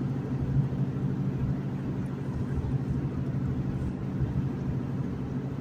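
Steady low hum of a car, engine and road noise with no sudden changes.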